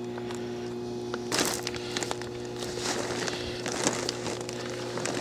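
Footsteps and gear handling crunching and rustling in wet snow, starting with a loud burst about a second in and going on irregularly. A steady low electrical hum runs underneath.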